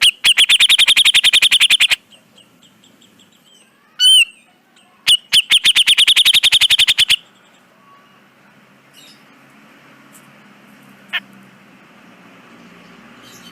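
Cucak jenggot (grey-cheeked bulbul) calling. It gives two rapid rattling series of notes, about ten a second and each about two seconds long, with a single slurred note between them. The bird then falls silent, leaving faint background hiss.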